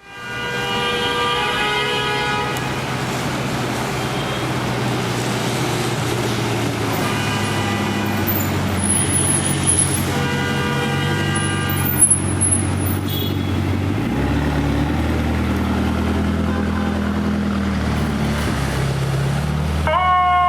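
Fire apparatus diesel engines running, with three long horn blasts. About 14 seconds in, the engine note deepens and gets heavier as the rig pulls out. Right at the end a siren begins to wind up.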